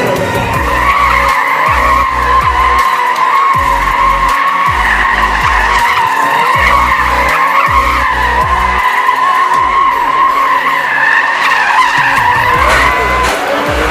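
Car tyres squealing in one long, wavering squeal as the car slides or spins its wheels, dying away near the end.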